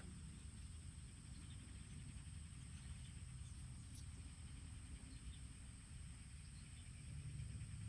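Quiet outdoor ambience: a steady high-pitched insect drone over a low, even rumble, with a few faint ticks.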